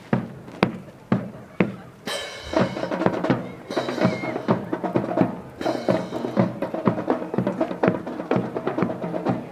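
Sharp wooden clacks of a drill team's rifles being slapped, spun and snapped in unison, a few at a time about once a second, then coming thicker from about two seconds in over a steady background with held tones.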